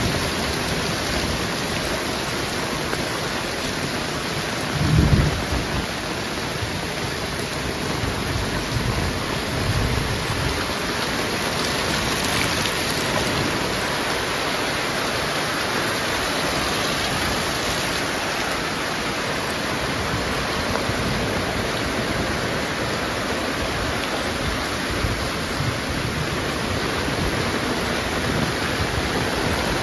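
Heavy rain falling in a steady, dense hiss. About five seconds in comes one brief, loud low rumble, with fainter low rumbles a few seconds later.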